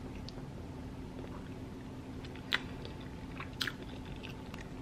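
A person chewing seafood-boil food with their mouth close to the microphone: soft wet mouth clicks, with two sharper smacks about two and a half and three and a half seconds in.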